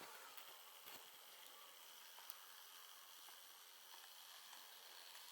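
Near silence: a faint steady hiss with a faint high steady tone and a few faint ticks.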